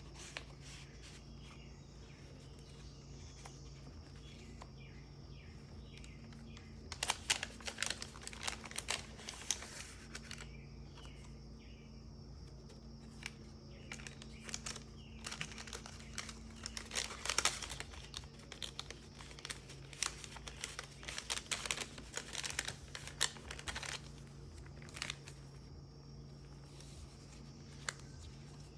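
Paper pages of a handmade junk journal being handled and turned, crinkling and rustling in bursts: one spell about a quarter of the way in, a longer one through the middle, and a few scattered rustles after.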